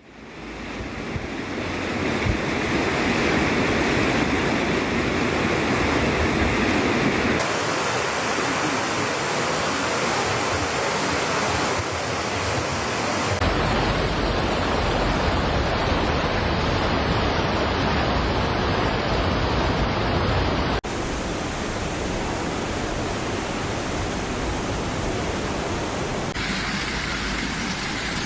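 Steady rushing noise of a storm, with wind, heavy rain and rushing floodwater. It changes character abruptly four times as one clip gives way to the next.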